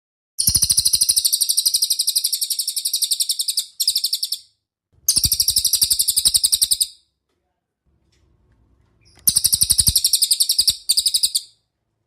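A songbird giving rapid trilled runs of sharp, high repeated notes, about a dozen a second, in five bursts separated by short silences.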